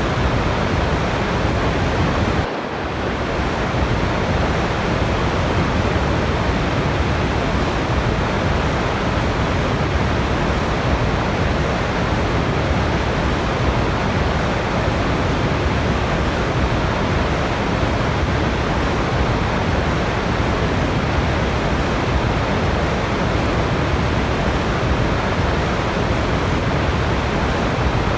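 Steady rushing water of a waterfall, a continuous even noise with a brief dip in level about two and a half seconds in.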